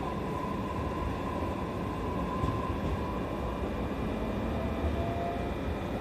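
E531 series electric train running, heard from inside the car: a steady low rumble with a thin steady whine that shifts to a lower whine about four seconds in.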